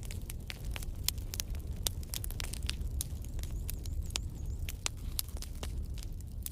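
Wood fire burning in a fireplace: logs crackling with many sharp pops, several a second, over a low steady rumble of the flames.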